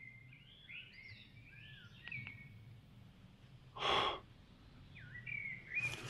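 A blackbird singing in short whistled, gliding phrases, with a pause in the middle. About four seconds in, one short, sharp breath out close to the microphone, the loudest sound.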